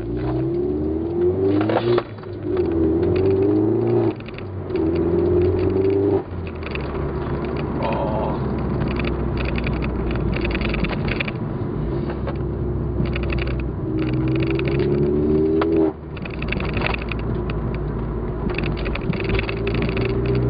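Vauxhall Corsa VXR's turbocharged four-cylinder engine and newly fitted Remus-replica third-piece exhaust, heard from inside the cabin with the windows up, accelerating hard. The note climbs and falls three times in quick succession, the falls about 2, 4 and 6 seconds in, then holds steady at a cruise. It climbs again to a sharp drop near the end.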